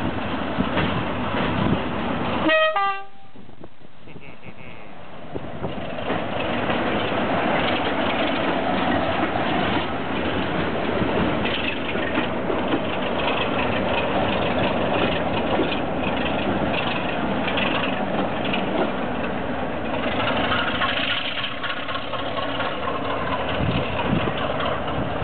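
Diesel train's engine running, with a brief horn toot a little under three seconds in. The engine noise drops away for a couple of seconds, then comes back as steady, loud running.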